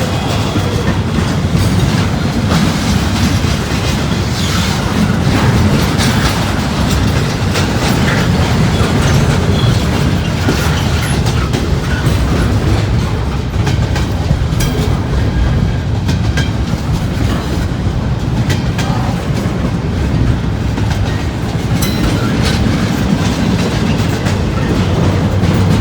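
CSX freight train's cars rolling past at close range: a steady heavy rumble of wheels on rail, with frequent sharp clacks as the wheels cross rail joints.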